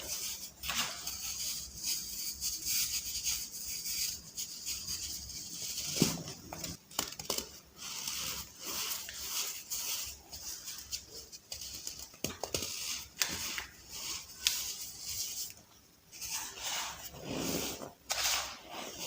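Soft baking soda balls being crushed, crumbling with a continuous crisp crunching and crackling, dotted with many small sharp snaps.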